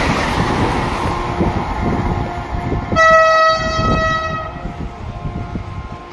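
Vande Bharat Express passing at speed on the adjacent line, its rumble fading as it pulls away. About three seconds in, a train horn sounds once, steady and loud, for about a second and a half.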